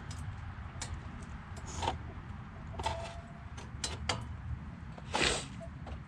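Nissan S14's engine idling with a steady low rumble, with scattered light clicks and a short rushing burst about five seconds in.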